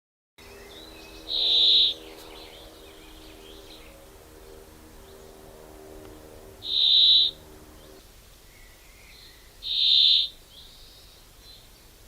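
A bird giving a short, high call three times, several seconds apart, over a faint steady low hum that stops about eight seconds in.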